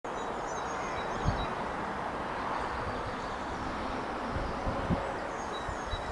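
Outdoor ambience: a steady rushing hiss, with small birds chirping now and then and a few low wind thumps on the microphone.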